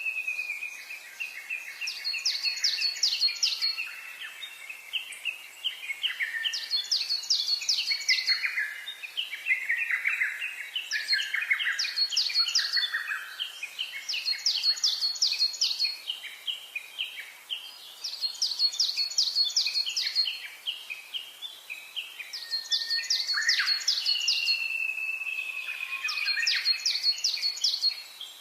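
Songbirds singing, with phrases of rapid high notes repeated about every four seconds over a lower, stepping run of notes.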